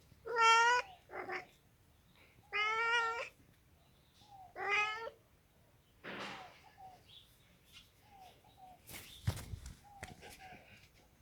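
Domestic cat meowing three times in the first five seconds, with a shorter call right after the first meow. A thump about nine seconds in.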